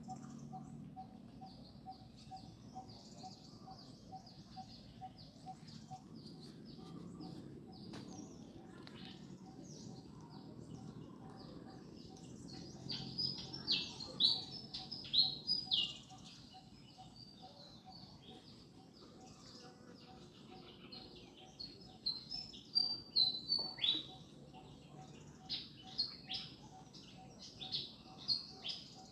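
Birds chirping in short, high-pitched notes. Two denser, louder runs of rapid chirps come about halfway through and again about three-quarters of the way through.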